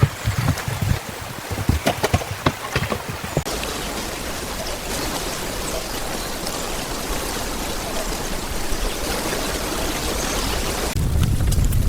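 Scattered sharp taps and ticks for the first few seconds, then a steady rush of running water that starts abruptly about three and a half seconds in and stops abruptly near the end.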